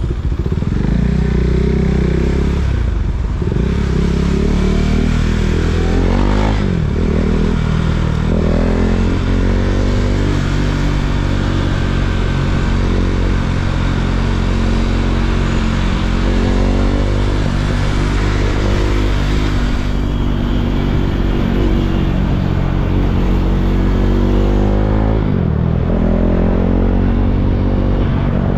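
KTM Duke 390's single-cylinder engine running under way, its pitch rising and falling with the throttle, with a few sharp drops in revs.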